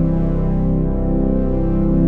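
Sequential OB-6 analog polyphonic synthesizer playing a custom patch: held, harmonically rich chords, with the notes shifting about halfway through.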